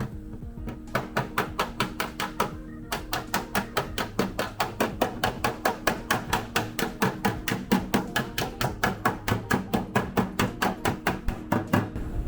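Metal hammer striking a car's steel body panel in a fast, even run of blows, about five a second, after a few scattered taps at the start. This is panel work to take the slack, oil-canning give out of the sheet steel and make it taut.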